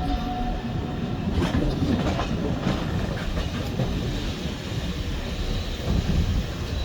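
A heritage railway train running along the track, its wheels clicking over the rail joints in a steady rumble.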